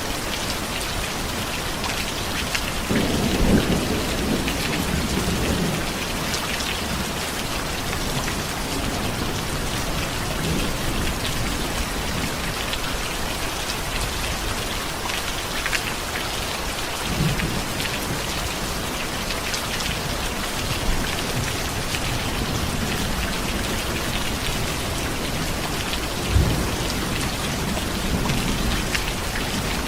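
Steady heavy rain, with low rumbles of thunder: the longest comes a few seconds in, and a short, sharper one comes near the end.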